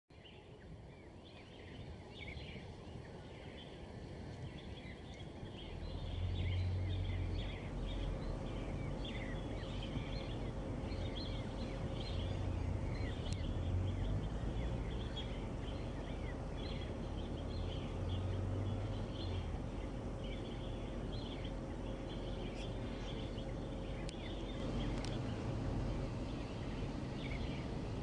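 Many birds chirping, a dense scatter of short, high calls, over a low rumble that sets in about six seconds in.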